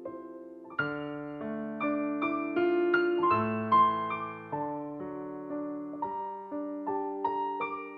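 Soft solo piano music: chords and melody notes struck about every half second, quiet for the first second, then fuller.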